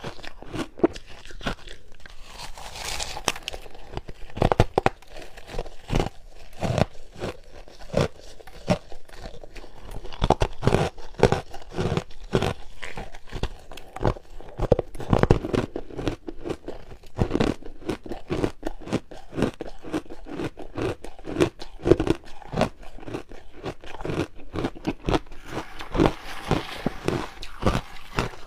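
Ice being bitten and chewed: a dense, irregular run of sharp crunches.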